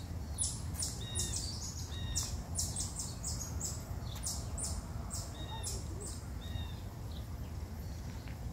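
Small birds chirping in the woods, many short high-pitched notes in quick succession that thin out towards the end, over a steady low rumble.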